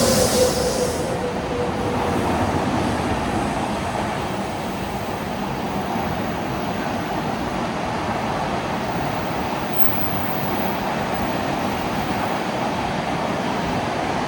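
Train moving along the tracks at the station, a steady loud running noise; a high wheel squeal and a falling tone fade out about a second in.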